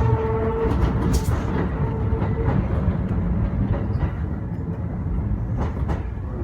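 Kintetsu electric train running, heard from inside the car: a steady rumble of wheels on rail with scattered clicks, and a steady whine that fades out about two and a half seconds in.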